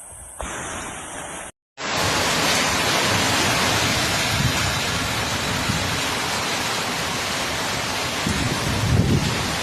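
Heavy rain pouring down in a steady, dense hiss, starting loud right after a brief cut about a second and a half in; a low rumble swells near the end.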